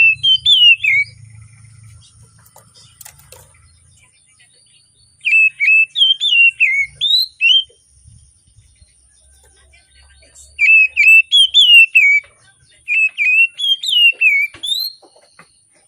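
Oriental magpie-robin singing: loud groups of quick whistled notes sliding up and down, in three bouts separated by pauses of a few seconds.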